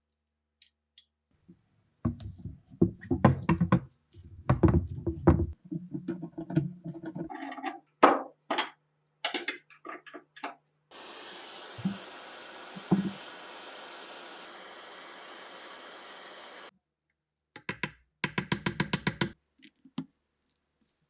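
Metal rifle parts knocked, rattled and clicked while being handled, with a steady hiss lasting about six seconds in the middle and a fast run of clicks near the end.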